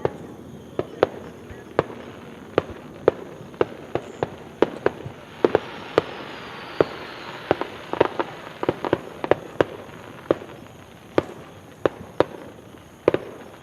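Fireworks display: an irregular run of sharp bangs from bursting shells, two or three a second, with a hissing crackle under the bangs in the middle stretch.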